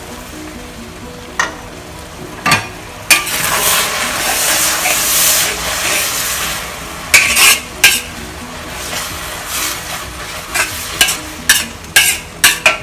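Noodles and broth sizzling in a hot wok, swelling to a loud hiss from about three to seven seconds in. A wok spatula scrapes and knocks against the pan as the noodles are stirred, most often near the end.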